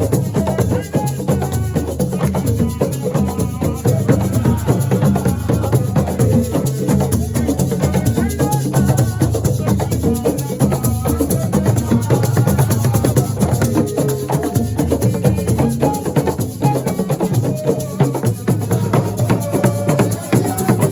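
Assiko music: drums and shaker rattles playing a steady, dense rhythm, with a pitched melody line over it.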